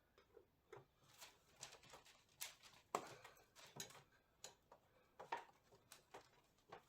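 Faint, irregular clicks and light knocks of metal parts and tools being handled while a Triumph TR6 gearbox is taken apart, the sharpest about three seconds in.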